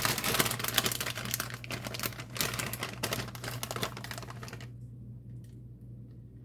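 Rapid, dense crinkling and rustling of a plastic bag being handled, stopping abruptly about three-quarters of the way through.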